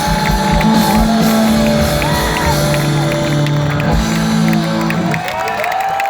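Live rock band playing the closing bars of a song, the held notes stopping about five seconds in, while a large crowd cheers and whistles.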